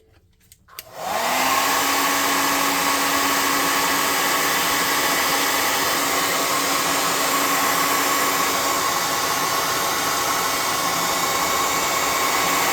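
Hand-held hair dryer switched on after a few clicks about a second in, then running steadily with a constant whine, blowing hot air onto a plastic figure to heat it.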